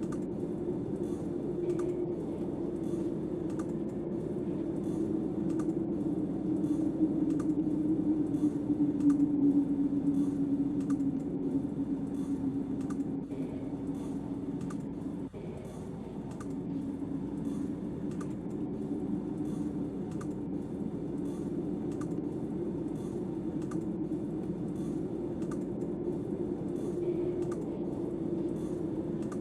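Snowstorm wind blowing around a cabin as a steady low rush that swells for a few seconds near the middle, then eases. Light, evenly spaced ticking runs through it, about two ticks a second.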